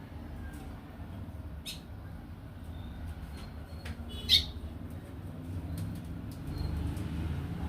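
A young golinha seedeater feeding: a few sharp taps and brief high chirps, the loudest about four seconds in, over a steady low hum.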